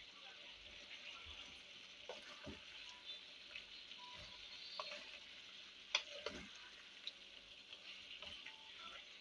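Sliced chicken breast sizzling faintly in a frying pan while a wooden spatula stirs and scrapes it, with scattered clicks and one sharper knock about six seconds in.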